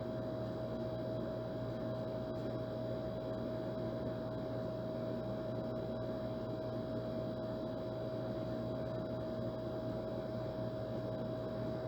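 Old air conditioner running steadily: an even rushing fan noise under a constant hum with a fixed mid-pitched tone.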